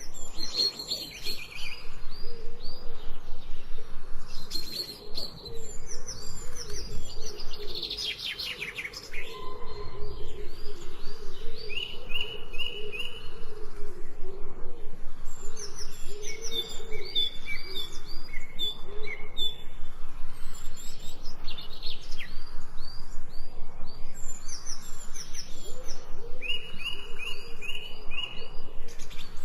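Several birds chirping and singing at once, with quick series of short repeated chirps overlapping each other throughout.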